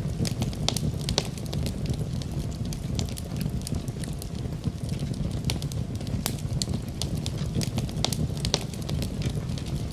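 Wood fire burning in a fireplace: a steady low rumble of the flames with frequent, irregular sharp crackles and pops of burning wood.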